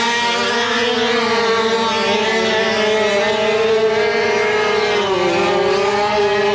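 80cc speedway motorcycle engine running hard at high revs, a steady buzz. About five seconds in the revs dip briefly, then climb again.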